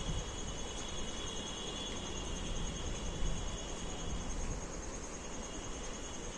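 Night insects trilling steadily: a fast, finely pulsed high-pitched trill, with a second, lower trill that fades about four and a half seconds in, over a steady background hiss.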